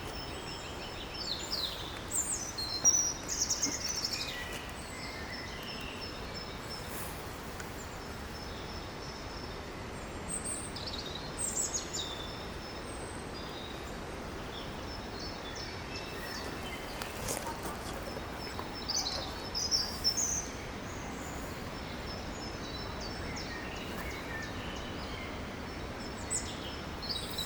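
Small birds singing and calling in short bursts of chirps and trills every several seconds over a steady outdoor background hiss.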